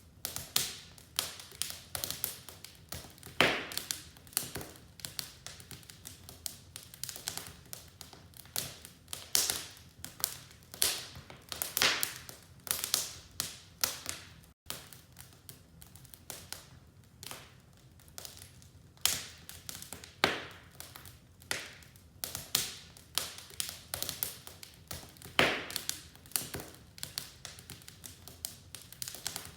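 Wood fire in a fireplace crackling: irregular sharp pops and snaps, several a second, over a faint steady low rumble of the flames, with a momentary dropout about halfway through.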